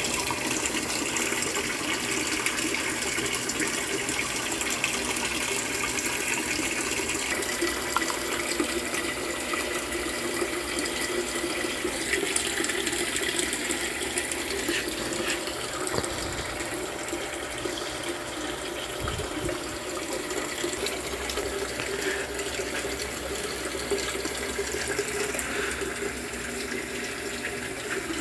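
Steady rush of water running in a Brastemp Ative 11 kg washing machine, easing off slightly about halfway through.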